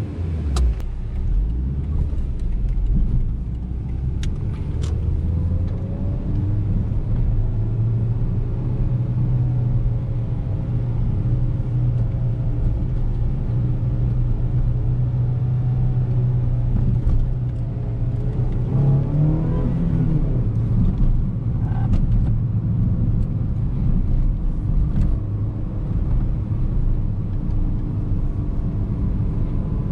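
2008 Suzuki Swift Sport ZC31's 1.6-litre VVT four-cylinder engine driving on the road. The revs climb over the first several seconds and then hold steady at a cruise. A little past halfway there is a brief rise and fall in revs, after which the engine settles to a lower note.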